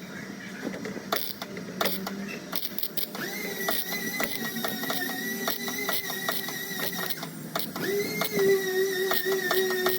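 Body hammer tapping on the sheet-metal skin of a car door, a rapid run of light strikes, roughly four or more a second, as a dent is knocked out. A steady pitched tone enters about three seconds in, with a lower one joining near the end and growing louder.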